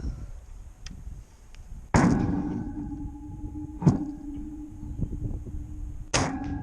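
Gamo pellet gun firing: a sharp crack about two seconds in, followed by a lingering ringing tone, then a short click, and another sharp crack with ringing near the end.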